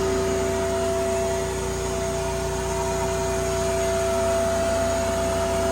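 A motor running steadily: a constant drone with a steady whine in it, unchanging throughout.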